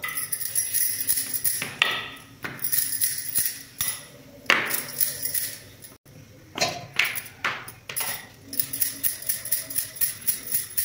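Dough being rolled out with a wooden rolling pin on a stone countertop, with bangles on both wrists clinking and jingling in quick rhythmic bursts as the hands work the pin back and forth.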